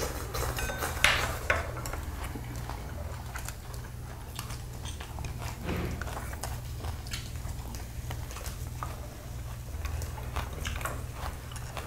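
People chewing mouthfuls of grilled beef bulgogi, with scattered light clicks of chopsticks against dishes and the grill. A steady low hum runs underneath.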